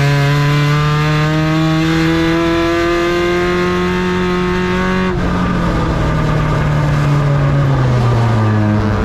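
Ford Ranger race truck's engine running hard. Its pitch climbs slowly for about five seconds, drops suddenly about halfway through as the throttle lifts, then falls off toward the end as the revs come down.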